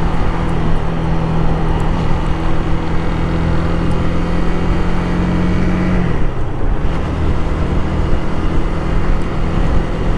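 Honda Rebel 300's single-cylinder engine running under way, with wind and road noise. The engine note is steady, then drops about six seconds in as the revs fall.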